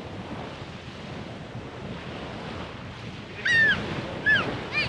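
Gulf surf washing on the shore, with wind buffeting the microphone. About three and a half seconds in come three short, high, arching calls in quick succession, the loudest sounds here, from a bird or a child.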